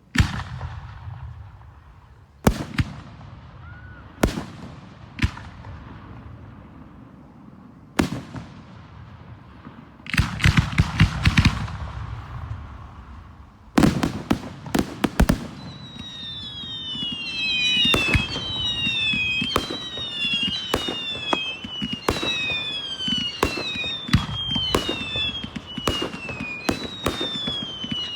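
Aerial display fireworks: sharp shell bursts every second or two, with a quick crackling salvo about ten seconds in. From about halfway, a run of high whistles falling in pitch, roughly one a second, mixes with continuing bangs.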